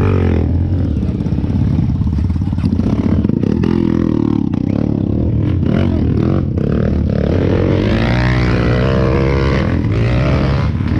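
Off-road vehicle engine running close by, its pitch wavering and rising as it revs up about eight seconds in.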